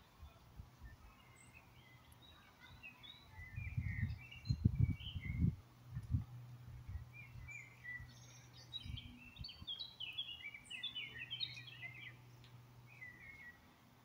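Small birds chirping and singing, many short notes, busiest in the second half. A few low thumps and rumbles about four to six seconds in are the loudest sound, and a faint steady low hum runs underneath.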